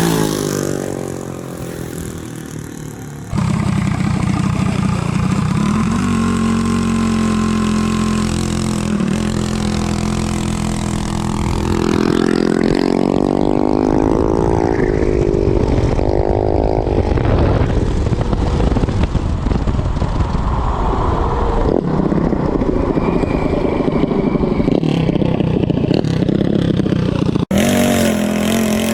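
Gas race minibike's single-cylinder engine running hard. Its pitch falls at the start, then rises in several sweeps as it accelerates. The sound breaks off abruptly twice, about three seconds in and near the end.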